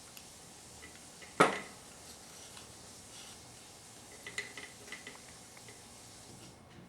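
Small metal parts and tools clinking during a 4L60E transmission pump rebuild: one sharp clink with a short ring about a second and a half in, then a few lighter taps and clicks.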